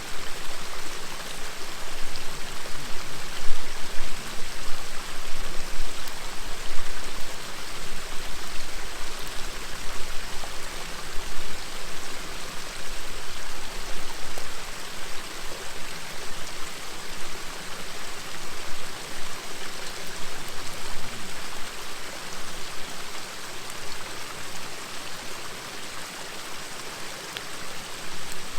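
River water flowing, a steady rushing murmur, with a few faint pops from a crackling wood campfire.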